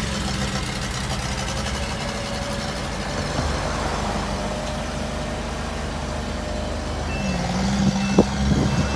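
Pony motor of a forestry bucket truck, a small auxiliary gasoline engine that drives the boom hydraulics, running steadily just after being started. About seven seconds in its pitch steps up slightly and a high beep starts repeating about once a second, with a single knock about a second later.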